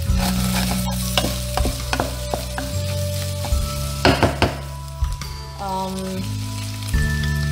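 Minced pork and chopped onion sizzling in a frying pan as a spatula stirs it, scraping and knocking against the pan, with the loudest knocks about four seconds in.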